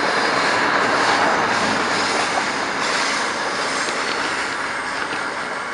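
Bi-level commuter train cars rolling past on the rails: a steady rush of wheel and track noise that slowly fades as the train moves away.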